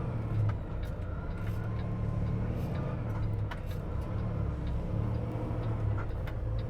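Semi-truck's diesel engine running with a low, steady drone, heard from inside the cab.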